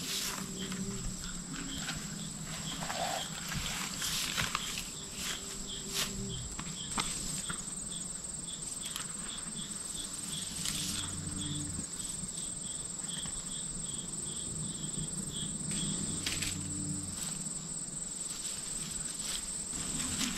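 Crickets calling: a steady high-pitched trill with a second cricket chirping about twice a second. Scattered knocks and rustles sound over them.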